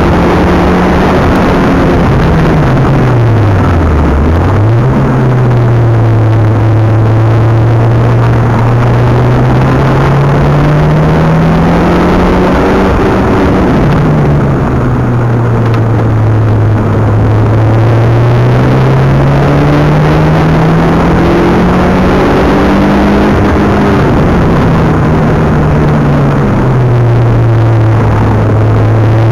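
Mitsubishi Galant VR-4's engine heard from inside the cabin under way, with road and wind noise. The revs fall sharply and pick up again about four seconds in, then climb slowly through a gear and drop twice, about halfway and near the end, as it shifts or lifts.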